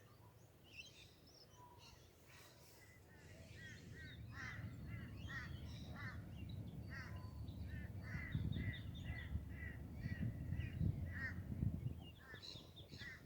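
Birds calling: a long run of short repeated notes, many to the second, with a crow-like quality. Under them a low rumbling noise builds from about four seconds in and is loudest near the end.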